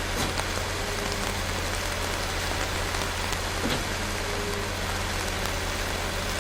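Steady rain falling on a surface, with scattered individual drop ticks, over a constant low hum.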